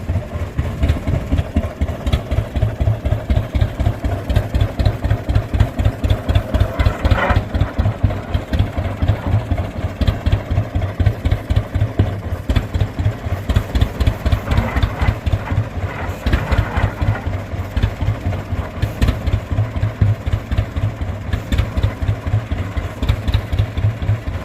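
1922 Rumely OilPull 16-30H tractor's two-cylinder, kerosene-burning engine running with a steady, even, rapid exhaust beat.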